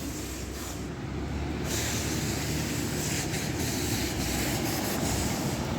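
Motor traffic: a steady rumble with tyre hiss from passing vehicles, growing a little louder about two seconds in.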